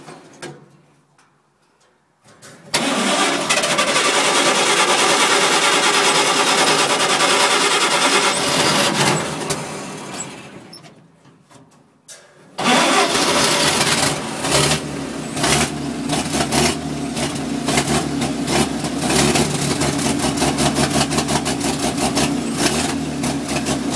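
Cab-over (COE) truck engine being started cold on the choke: a first try about three seconds in spins loudly for several seconds, then dies away. About twelve and a half seconds in it fires again and keeps running with an uneven, pulsing beat.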